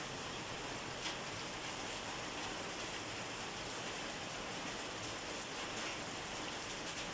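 Steady rain falling, an even hiss with a single faint drop tick about a second in.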